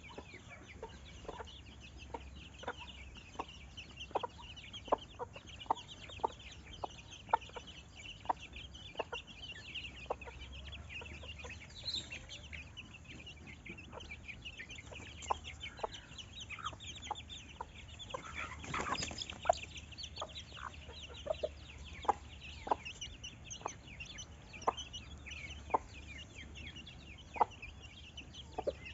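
Chickens clucking, with short sharp notes every half second to a second over a dense, high-pitched chirping and a low steady hum. A fuller, louder burst comes about two-thirds of the way through.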